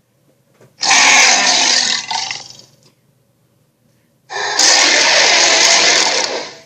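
Two harsh roars, each about two seconds long, the second starting about four seconds in, made as a sound effect for an imaginary creature.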